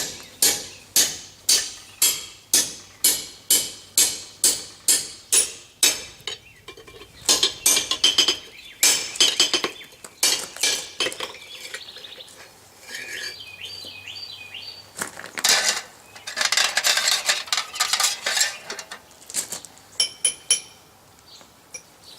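Hand hammer striking a steel drift through a hot punched hole on an anvil, with ringing metallic blows. A steady run of about two to three blows a second for the first five seconds or so, then more irregular strikes and a stretch of denser clattering.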